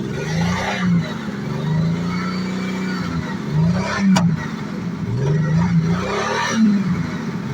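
1986 Jaguar XJ6's engine running and being revved up and down over and over, about once a second, with a sharp click about four seconds in.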